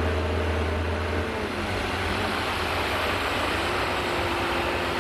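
Heavy diesel engine of construction machinery running steadily; about a second in the engine note drops and falls in pitch, then settles at a lower, steady note.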